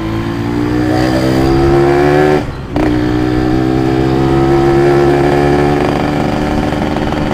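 Yamaha RX-King's two-stroke single-cylinder engine pulling under throttle while riding, its pitch climbing, with a brief break about two and a half seconds in before it pulls steadily again.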